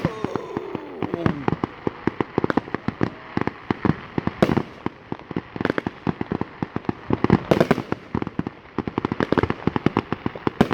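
Fireworks display going off: a rapid, continuous barrage of bangs and crackles. Two louder bursts come about four and a half and seven and a half seconds in.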